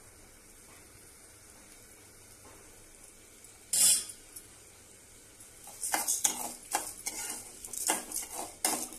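Lentils and spices frying in oil in a pan with a faint sizzle, and a metal utensil scraping against the pan as the tempering is stirred: one loud scrape about four seconds in, then repeated scraping strokes from about six seconds in.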